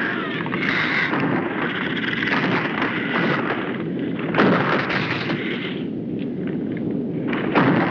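Film sound effects of explosions and rumbling, a dense din with heavy booms about four and a half seconds in and again near the end.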